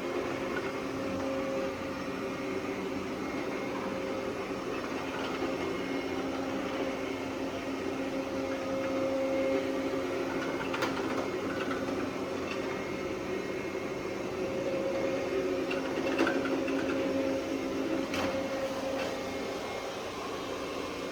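Roborock Qrevo S robot vacuum running, a steady motor hum with a steady tone over it, and a few sharp clicks in the second half.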